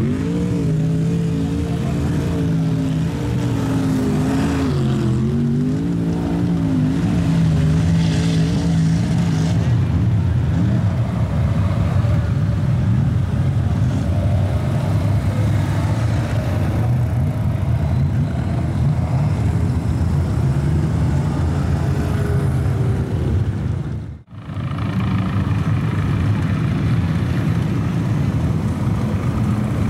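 Big off-road truck engine running loud and revving, its pitch rising and falling over the first several seconds, then a steady heavy rumble. It cuts out sharply for a moment about 24 seconds in.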